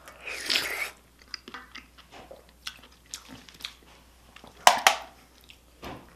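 Close-miked eating of Korean spicy beef soup with rice: a slurp at the start, then chewing with scattered small wet clicks, and a couple of sharper, louder clicks almost five seconds in.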